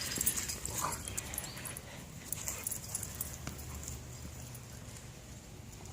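Faint sounds of dogs: a short dog vocalization about a second in, among scattered small clicks and a low background hum.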